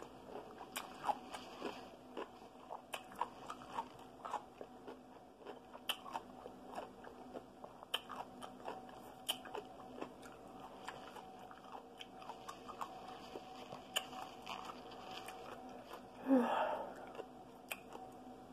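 Close-up mouth sounds of someone chewing a bite of juicy dill pickle: a run of irregular wet crunches and clicks. About sixteen seconds in comes a brief vocal sound.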